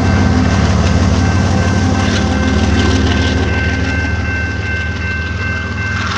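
Train passing close by: a loud, steady low rumble of the locomotive and cars, with a steady high-pitched whine over it.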